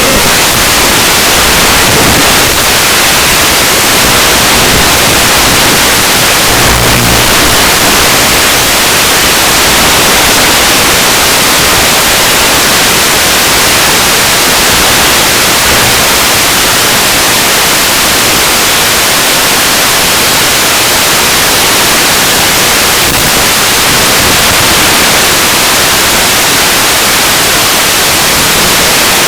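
Loud, steady static hiss with no tone or rhythm in it, the kind of audio that an analog FPV video link records from a ZOHD Drift's 200 mW video transmitter.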